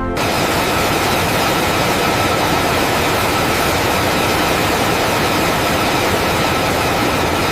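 Loud, steady engine roar with a faint high whine over it, starting abruptly and holding level throughout.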